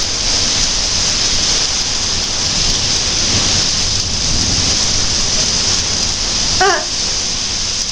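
Steady monsoon rain pouring down, a constant even hiss of rain falling on surfaces.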